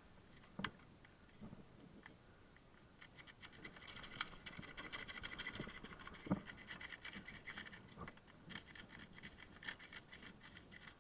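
Close, heavy breathing with rustling of clothing and gear, grows denser about three seconds in. Two sharp knocks, the louder one past the middle.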